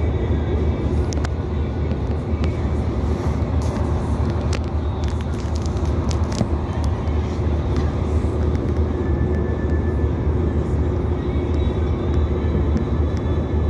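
Inside a 2800 class diesel railcar running on the line: a steady low drone from the underfloor diesel engine and the wheels on the rails, with scattered sharp clicks, mostly in the first half.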